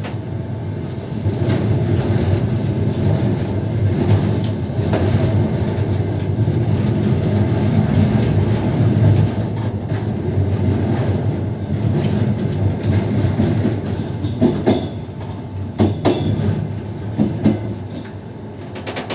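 Passenger coach wheels rolling over the track, heard from the open window of the rear carriage: a steady rumble with clickety-clack, and several sharp separate clacks over rail joints and points in the last few seconds.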